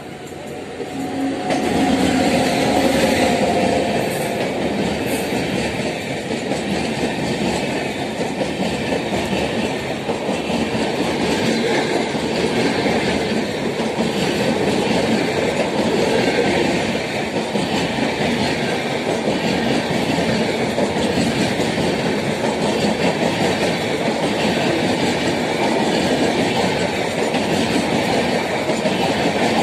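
Electric-hauled Indian express train of red-and-grey coaches running through a station at speed: a loud, steady rush of wheels and rails with clickety-clack. It swells about a second and a half in as the locomotive reaches and passes.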